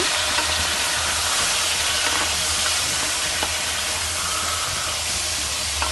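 Country chicken pieces sizzling as they fry in hot oil in a pressure cooker, a steady hiss with a low hum underneath.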